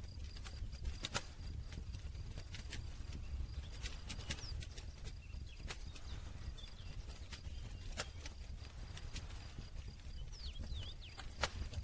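Wood campfire crackling, with sharp irregular pops and snaps over a low steady rumble of the flames.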